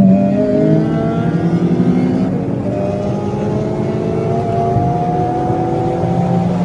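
Tuned Volkswagen Golf GTI's turbocharged four-cylinder engine, with an APR Stage 2 tune, intake and full exhaust, heard from inside the cabin under hard full-throttle acceleration. The revs climb, drop with a DSG upshift about two seconds in, climb again and drop with another upshift near the end.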